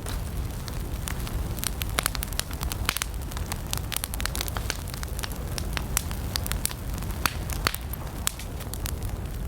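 Wood campfire burning: irregular sharp crackles and pops from the burning logs over a steady low rumble of the flames.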